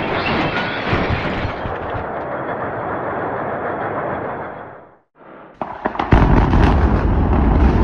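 A workshop chain-reaction blast: dense, rapid crackling bangs like popping explosions. After a brief break about five seconds in, a louder, deeper rumbling blast noise follows.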